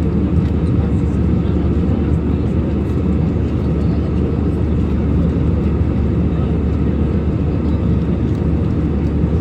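Steady low roar of an airliner in flight, heard from inside the passenger cabin: even engine and airflow noise.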